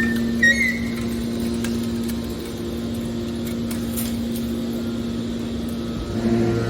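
Horizontal hydraulic scrap metal baler running, its hydraulic pump and motor giving a steady hum, with a few short high squeaks in the first second.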